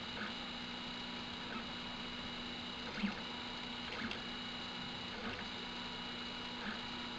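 Prusa i3-type (Graber i3) 3D printer's stepper motors running with a steady whine, the tones broken by short clicks every second or so.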